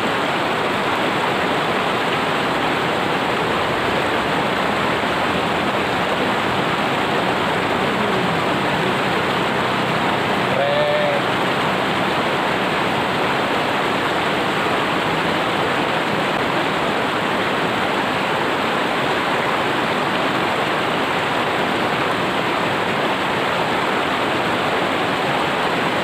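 River water rushing steadily, a constant dense rush with no breaks, the river running murky after rain.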